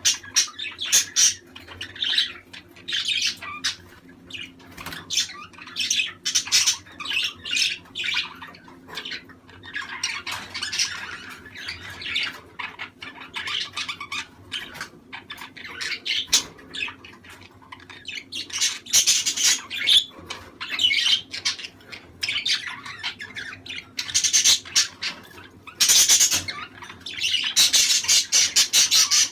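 Budgerigars chattering and warbling, with loud squawks and chirps coming in irregular bouts over a faint steady hum.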